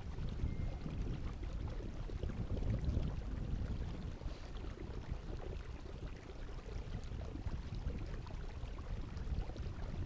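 Low, uneven rumbling noise of wind and water on an open microphone, with no distinct strokes or tones.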